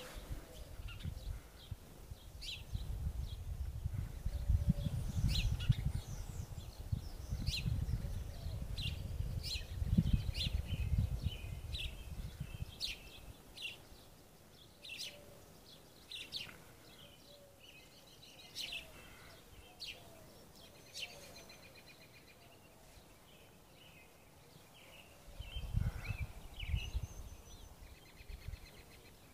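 Small songbirds chirping and singing in short, repeated high notes. A low rumble runs under them for the first half and again briefly near the end.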